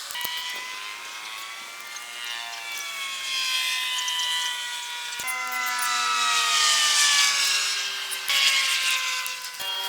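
Helicopter turbine whine over a steady rushing hiss, the whine sliding slowly in pitch; it breaks off abruptly and resumes at a different pitch a few times.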